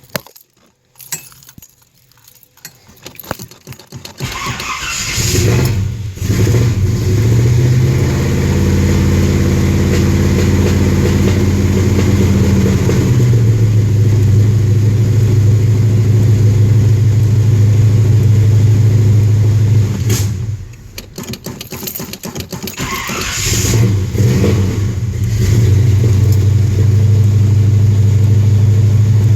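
A classic car's engine being cold-started. After a few seconds of faint knocks and cranking it catches and is revved, then runs at a high, steady idle. About two-thirds of the way through it falters and nearly dies, then picks up again under more revving and settles back into a steady idle.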